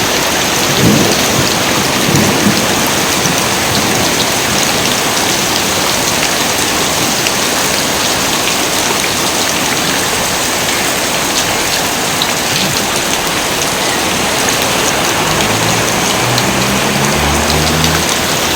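Heavy rain pouring steadily, with low thunder rumbles in the first couple of seconds and another low rumble near the end.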